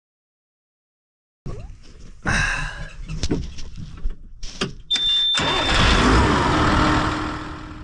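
New Holland 8770 tractor's diesel engine being cranked and then catching about five seconds in, running up loudly and then settling; a steady high tone sounds briefly as it catches. It starts after the loose terminals on its start relay were cleaned and squeezed tighter.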